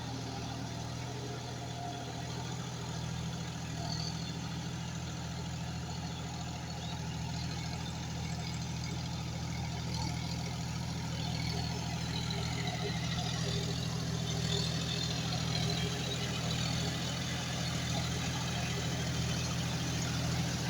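John Deere 5105 tractor's three-cylinder diesel engine running steadily, getting gradually louder.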